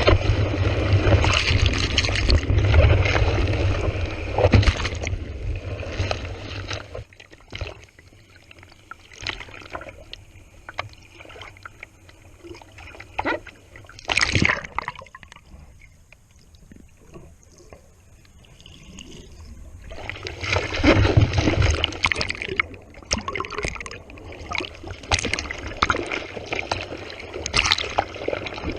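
Sea water sloshing and splashing close to a GoPro camera in the surf. It is loud with a low rumble for the first several seconds, drops to quieter gurgling and small splashes in the middle, and grows loud again about twenty seconds in.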